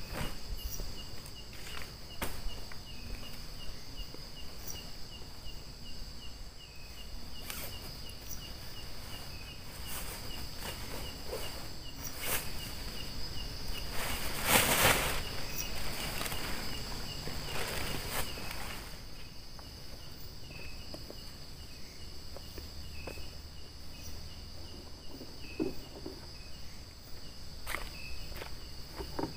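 Outdoor insect chorus: a steady high shrill of crickets, with a second insect chirping regularly about two or three times a second. Scattered rustles and footstep-like crunches come through it, the loudest about halfway through.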